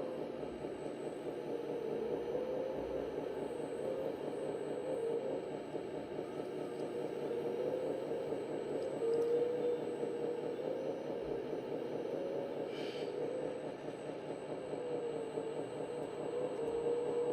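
Scale RC model tractor running, with a steady engine-like drone from its sound electronics and a tone that wavers up and down. A short rustle or scrape sounds about 13 seconds in.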